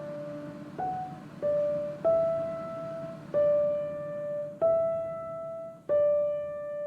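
Background music: a slow piano melody of six single notes struck one after another, each left to ring and fade, the last one held ringing.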